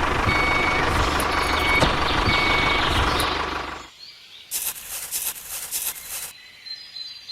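A small vehicle's engine running with a reversing alarm beeping in short repeated tones. Both cut off just under four seconds in. A few brief clattering noises follow.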